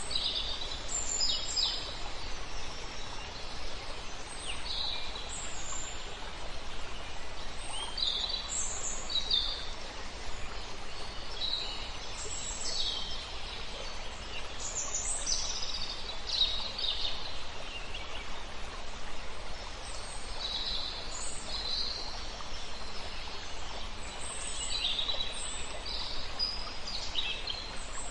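Several songbirds calling and singing, with many short high chirps and phrases one after another, over a steady hiss of flowing river water.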